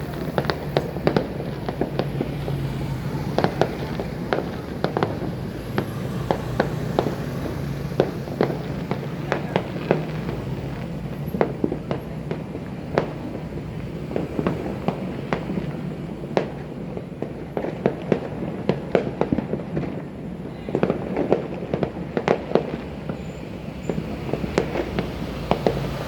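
Fireworks going off without pause: a dense, irregular run of sharp bangs and crackles, one close on another.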